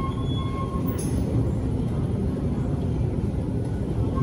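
Steady low rumble of an MTR electric train running along the depot tracks, with a few short high tones over it.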